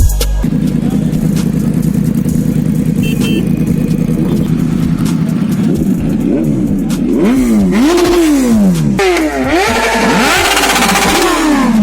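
Sport motorcycle engines running at a steady drone, then from about six seconds in revving up and down repeatedly, the pitch rising and falling several times. The sound grows louder toward the end.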